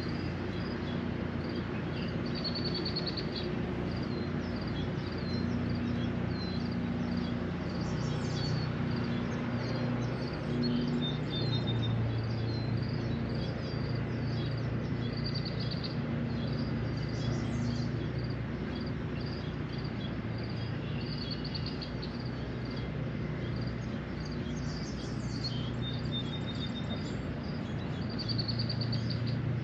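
Small songbirds chirping and trilling in short repeated phrases throughout, over a steady low rumble and a constant hiss.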